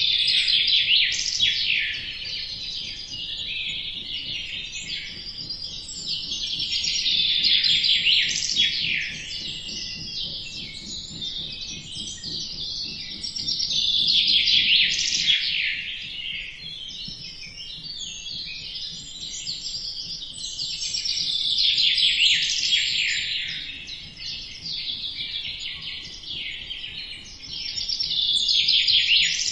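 A dense chorus of small songbirds chirping and twittering in quick high notes. It swells louder about every seven seconds, then thins again.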